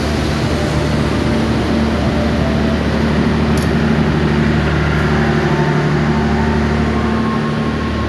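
Passenger train rolling slowly past, with the steady low drone of diesel engines throughout; the drone swells slightly about four seconds in as the power car's generator set goes by.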